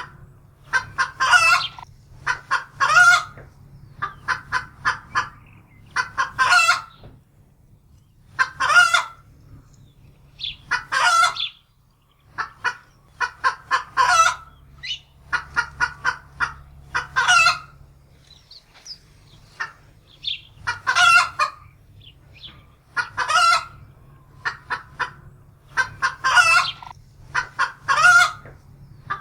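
Domestic hen cackling in alarm: runs of quick clucks, each ending in a long, loud squawk, repeating every two to three seconds. It is the frightened cackle of a hen that has just seen a predator, a wildcat.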